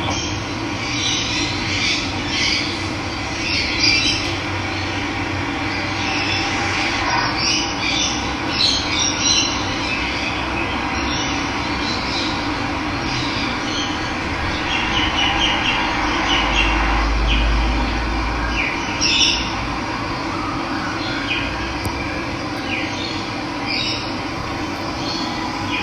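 Running water making a steady rush, with many short bird calls and chirps over it.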